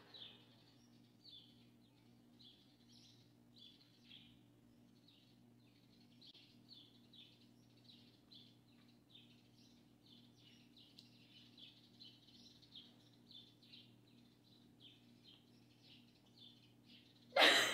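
Faint bird chirping, short calls repeating irregularly throughout, over a low steady hum.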